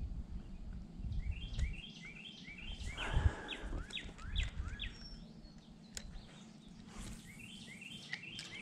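A songbird singing repeated phrases of short rising whistled notes, with low rumbling underneath and a single louder thump about three seconds in.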